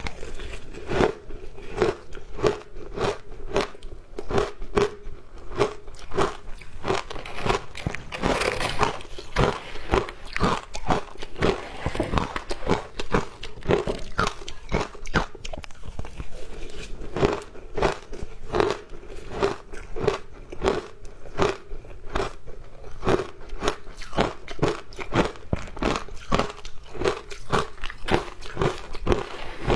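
Frozen ice being bitten and crunched between the teeth, close to the microphone: a steady run of crisp crunches, about two to three a second, with a denser flurry about eight seconds in.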